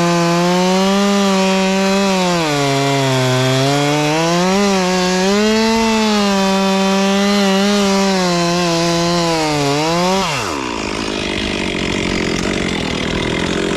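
Two-stroke chainsaw cutting into stump wood, its engine pitch dipping and recovering as it bogs under load. About ten seconds in, the engine note falls away steeply, leaving a steady noisy rattle.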